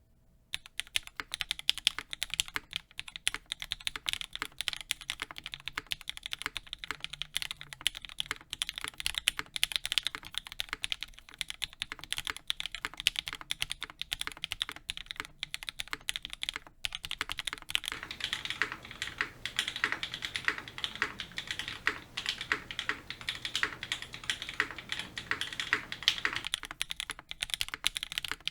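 Typing on a mechanical keyboard fitted with lubed Cherry MX2A Black linear switches on an Ultem plate, under GMK keycaps: a continuous stream of crisp key clacks. The keystrokes start about half a second in and grow denser and fuller for several seconds from about two-thirds of the way through.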